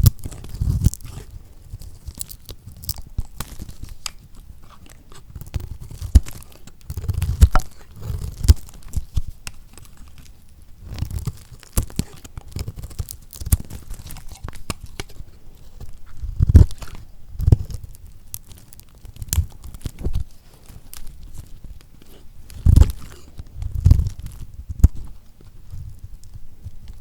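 A knife cutting through lacquered soap: repeated crisp crunching and crackling as the blade breaks the hardened coating, with low dull thuds every second or two as each cut goes through.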